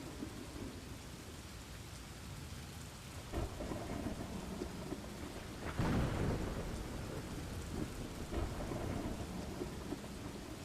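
Thunderstorm: steady rain falling, with rolls of thunder, one a little over three seconds in and a louder one just before six seconds that rumbles away over a couple of seconds.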